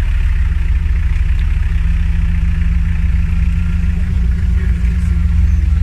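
Off-road vehicle's engine idling, a steady low rumble with no change in revs.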